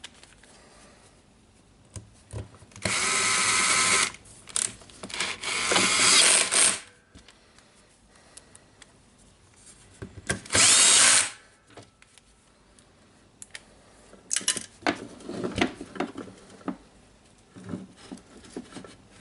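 Cordless drill/driver running screws in, three times: a short run about three seconds in, a longer one that rises in pitch as the screw seats, and a brief one near the middle. Small clicks and knocks of parts being handled come between the runs.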